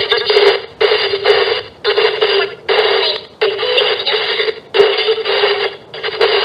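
Spirit box sweeping through radio stations: choppy blocks of static and radio fragments through a small speaker, about seven bursts broken by short gaps.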